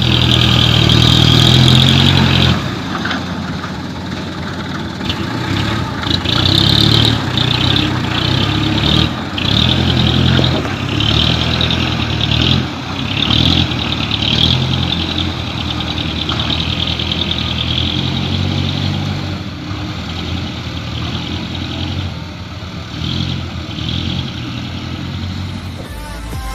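Light diesel dump truck engine working on a muddy track, its revs rising and falling several times.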